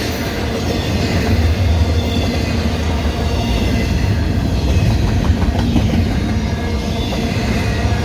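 Canadian Pacific intermodal freight train rolling past at track speed: a steady, loud rumble of the cars' steel wheels on the rails.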